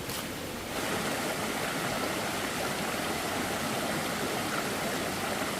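Steady rush of running water, starting abruptly just under a second in.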